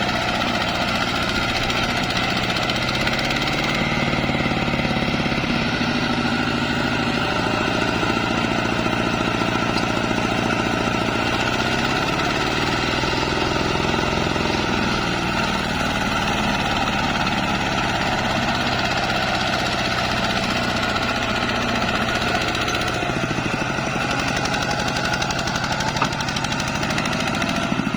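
ZT 155 tractor engine running steadily under load while hauling rice through mud. Its pitch sags and recovers slightly midway, and there is a brief click near the end.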